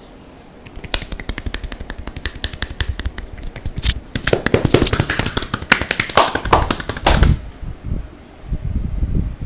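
Fast, rhythmic percussive massage blows, hands striking the neck, shoulders and upper back in quick tapping strokes. They run for about six seconds and stop sharply, followed by a few dull, low thumps.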